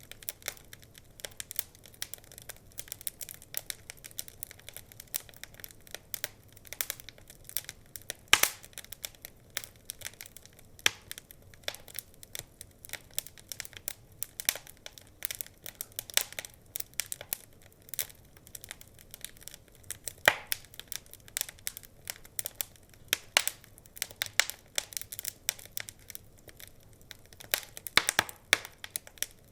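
Wood fire crackling, with a steady run of small irregular pops and snaps and a few louder pops, one about eight seconds in, one about twenty seconds in and a cluster near the end.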